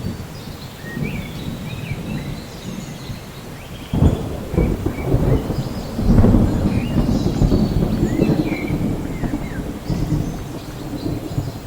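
Thunder rumbling over steady rain in a rainforest soundscape, with a sudden crack about four seconds in and a longer, louder rumble from about six seconds. Birds chirp in short high notes above it.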